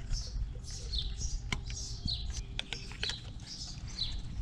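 Short, high, falling bird chirps repeating about twice a second, with a few sharp plastic clicks as new ignition coil packs are handled and pressed into place on the engine.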